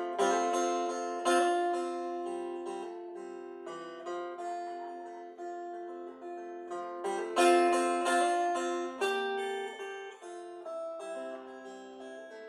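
Guitar solo: single plucked notes and chords ringing out and dying away, with strong strums at the start and about seven and a half seconds in.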